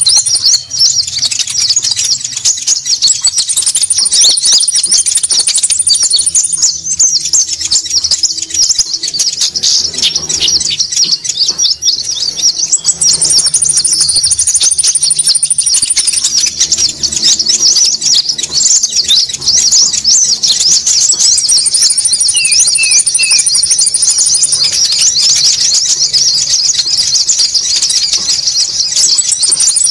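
Bird-lure recording of konin birds calling noisily: many high, thin chattering calls overlapping without pause, with a higher steady trill joining for a second or two every several seconds and three short lower notes once, about two-thirds through.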